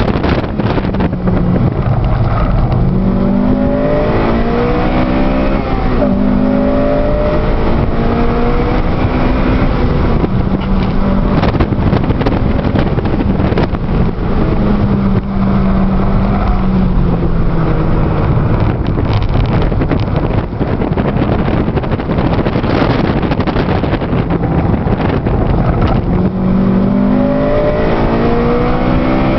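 2008 Honda Civic Si's 2.0-litre four-cylinder engine heard from inside the cabin while lapping a track, its revs climbing in the first few seconds, holding a steady note, falling away about two-thirds of the way through and climbing again near the end. A steady rush of wind and road noise runs underneath.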